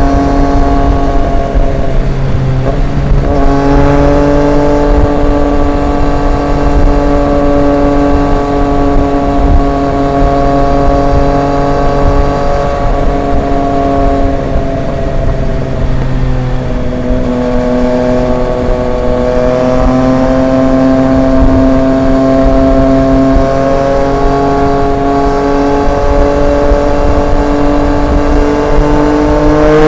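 Triumph Street Triple 765 RX inline three-cylinder engine through an SC Project S1 exhaust, cruising at steady throttle. Its note wavers briefly about three seconds in, eases down around the middle, then climbs slowly in pitch and rises sharply at the very end.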